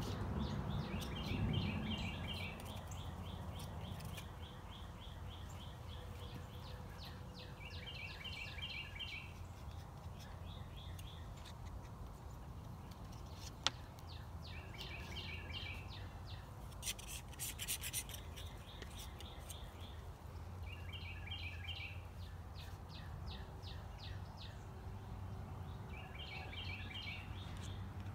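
A songbird singing the same short, rapid phrase over and over, about every six or seven seconds, over a steady low outdoor rumble. A single sharp click sounds about halfway through.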